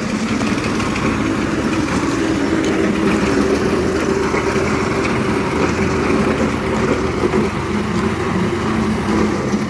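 Tractor engine running steadily at a constant speed while the tractor works its bucket.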